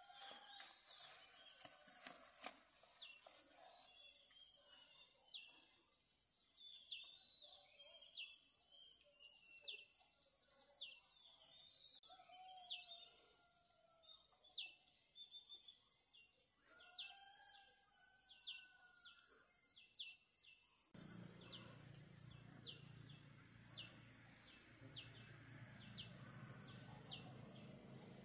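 Faint outdoor ambience: a bird repeating short high chirps about once a second, with a few lower calls, over a steady high hiss. A low steady hum comes in about three-quarters of the way through.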